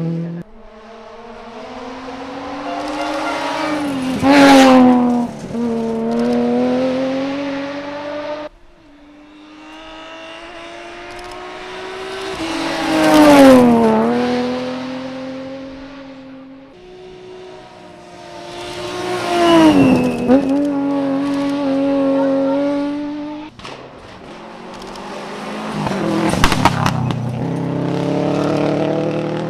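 Rally cars passing one after another at speed, four in turn: each engine gets louder and higher as it approaches, then drops sharply in pitch as it goes by. There are a few sharp cracks around the passes.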